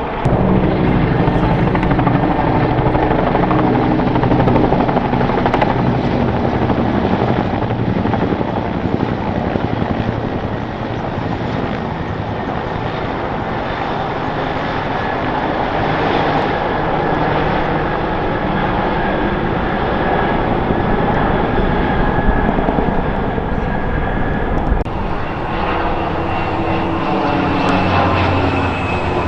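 Military helicopters flying over in a flypast: steady rotor and turbine engine noise, with steady whining tones joining in about two thirds of the way through.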